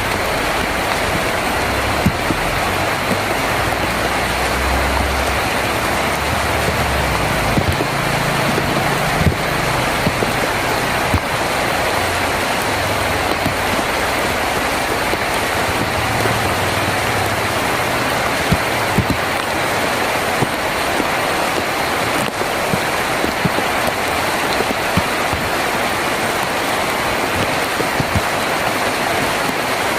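Heavy rain falling on a tin roof: a steady hiss with many sharp drop ticks. A low rumble comes and goes during the first half.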